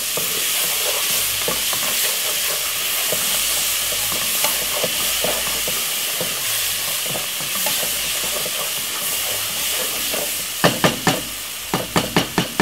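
A seasoning base of onions, peppers, browning and ketchup sizzling in hot oil in a pot while a wooden spoon stirs and scrapes through it, making a steady frying hiss. Near the end come several sharp taps.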